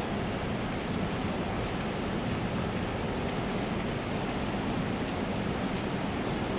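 Storm wind and rain making a steady rushing noise.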